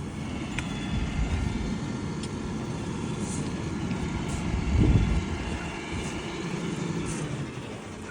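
Road traffic passing close by: a steady vehicle rumble that swells to its loudest about five seconds in, then eases off.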